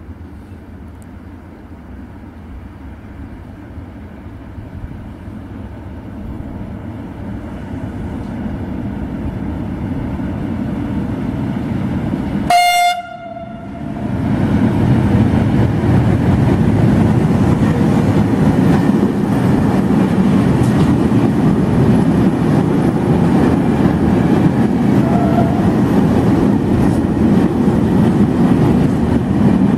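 Electric locomotive hauling a freight train of hopper wagons, growing louder as it approaches and sounding one short horn blast about halfway in. The train then passes close by with a loud, steady rumble and the clatter of wheels over the rail joints.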